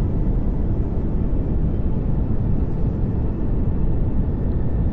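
Steady pink noise: an even, unchanging hiss-like rush, heaviest in the bass and falling off toward the treble.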